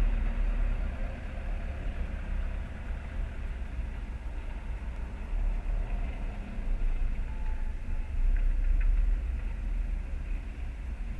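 Low, steady rumble of a car engine idling, heard from inside the cabin through a dashcam microphone, with the sound of other cars moving on the street.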